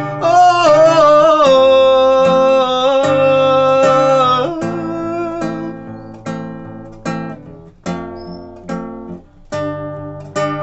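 A sung note held for about four seconds over acoustic guitar. The guitar then carries on alone with slow, separate strummed chords, each left to ring out, as the song closes.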